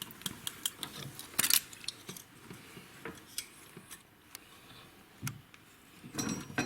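Metal tools clicking and clinking against the valvetrain of a VAZ 1300 engine during valve clearance adjustment, in irregular separate clicks with a louder cluster about a second and a half in and another near the end.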